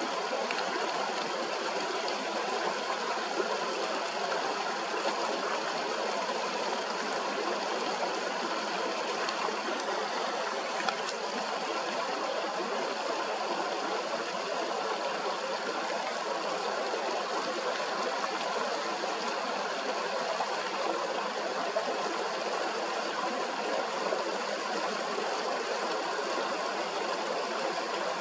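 Steady rush of a fast-flowing stream, an even, unbroken wash of water noise.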